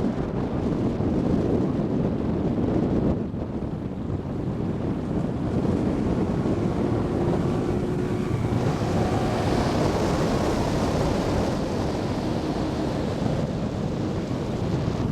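Wind buffeting the microphone on the open deck of a moving tour boat, over the rush of water along the hull. It eases briefly about three seconds in and turns hissier past the halfway point.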